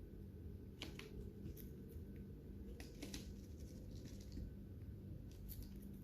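Lovebirds cracking and nibbling seeds with their beaks: scattered small, irregular clicks and crunches over a steady low hum.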